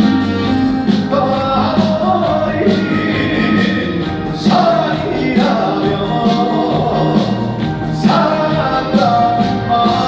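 Live trot song played by a band through a concert sound system, with singing over the accompaniment.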